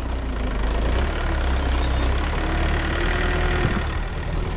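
A large vehicle engine running steadily at idle or low revs.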